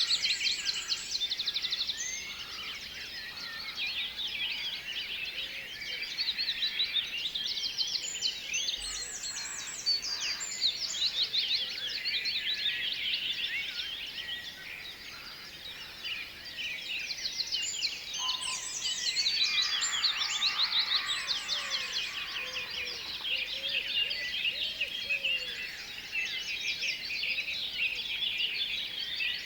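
Many songbirds chirping and singing at once in a dense, overlapping chorus of quick high chirps and short falling whistles.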